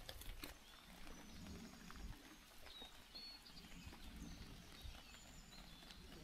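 Near silence: faint outdoor ambience with a low rumble and a few brief, faint high chirps.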